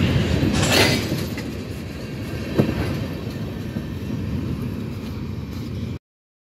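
Freight train tank cars rolling past on the rails: a steady low rumble of wheels on track, with a brief rush of noise just under a second in and a single sharp clank about two and a half seconds in. The sound cuts off suddenly near the end.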